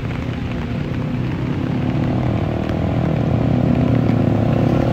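A motor vehicle engine running steadily, growing louder from about halfway through.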